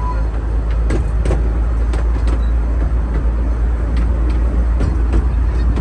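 Miniature railway train running along the track, heard from the moving carriage: a steady low rumble with irregular sharp clicks and knocks from the wheels on the rails.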